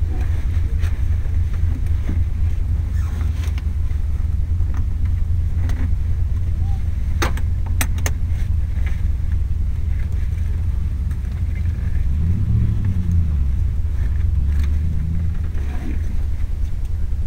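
Rally-prepared GU Nissan Patrol 4WD's engine idling with a steady low rumble, heard from inside the cabin while the car waits stationary. A few sharp clicks come about seven to eight seconds in, and the engine sound swells briefly about twelve seconds in.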